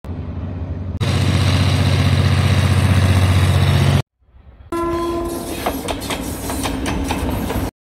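Diesel freight locomotive running with a steady low engine rumble. After a cut comes a short horn note, then the clicking of wheels over rail joints as the train rolls past.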